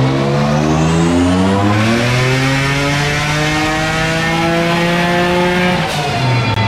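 Single-turbo Nissan 350Z's 3.5-litre V6 making a full-throttle pull on a chassis dyno, its note climbing steadily in pitch as it revs out. Near the end it breaks off sharply and falls away as it comes off the throttle, at what appears to be the rev limiter.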